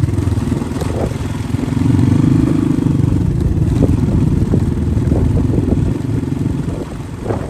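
Dirt bike engine running as the bike is ridden, its revs and loudness rising a little about two seconds in and then holding steady.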